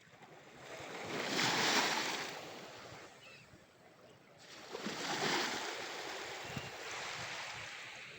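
Ocean waves washing up the shore: two surges of surf, each swelling and then fading, the second starting about halfway through and lasting longer.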